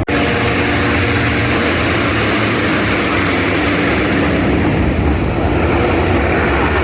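Loud, steady vehicle engine noise, with a few held engine tones in the first two seconds.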